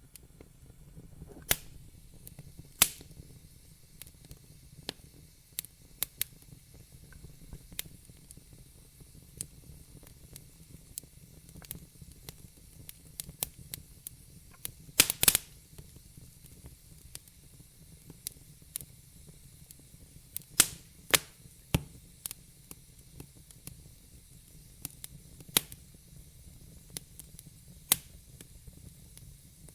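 Fire in a fireplace crackling: irregular sharp pops and snaps over a low steady rumble, with a quick run of loud pops about halfway through.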